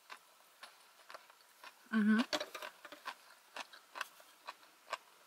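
Close-miked mouth sounds of someone chewing sushi: scattered wet clicks and smacks, with a short hum of the voice about two seconds in.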